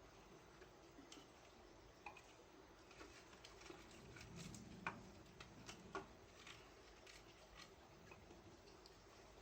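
Near silence with a few faint, scattered clicks and light taps; the sharpest two come about halfway through, about a second apart.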